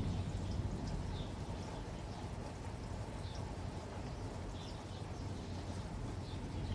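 Steady rain falling, with faint short high chirps about once a second.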